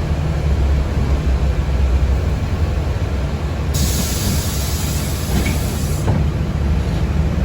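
Steady low rumble inside a city public-transport vehicle, with a hiss of released compressed air starting suddenly about halfway through, lasting about two seconds and cutting off sharply.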